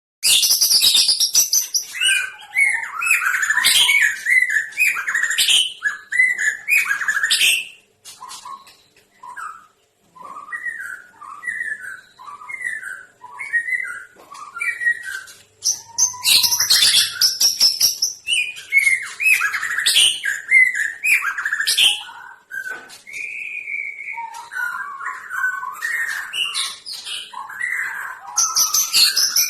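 Captive songbirds singing in bursts of rapid, varied chirps and whistles. A quieter run of short separate phrases comes about a third of the way in, then the song turns loud and busy again.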